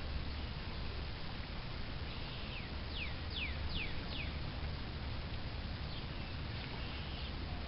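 A bird calling: a quick run of four short, sharply falling whistled notes a couple of seconds in, with a few fainter calls later, over a steady low rumble.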